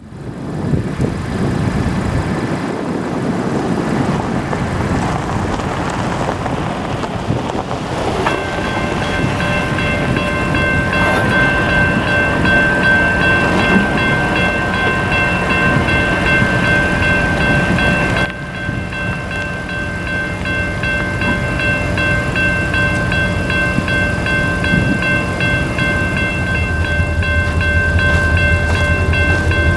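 A train rumbling past a railroad grade crossing. About eight seconds in, the crossing's warning bell starts ringing steadily over it. The sound cuts off abruptly a little past halfway and then resumes.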